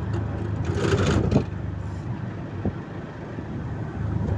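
Motor vehicle engine running steadily, with a low hum and road noise. There is a brief louder rush of noise about a second in.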